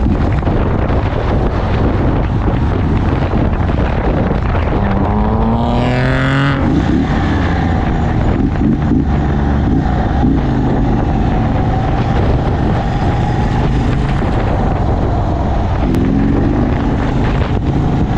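Motorcycle at freeway speed with steady wind and road noise. The engine revs up sharply about five seconds in, and again near the end.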